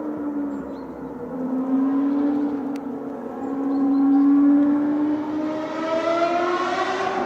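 Ferrari track car's engine running at high revs, its note climbing slowly and then rising more steeply near the end as the car accelerates.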